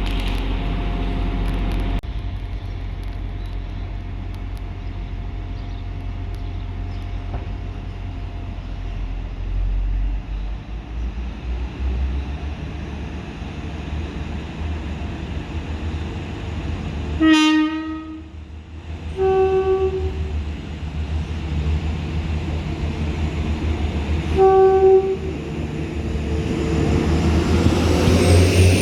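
A train's low engine rumble, with the train horn sounded three times in short blasts: a brief one, then two short tones a few seconds apart. A rising whine builds near the end.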